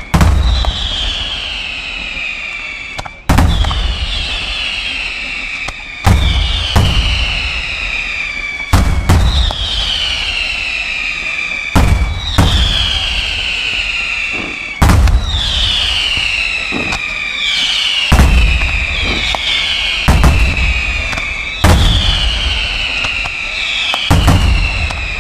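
Aerial firework shells, Maltese beraq and salutes, going off in a steady series of loud sharp reports, about one every one to three seconds. Each report is followed by a falling high whistle-like tone lasting a second or two.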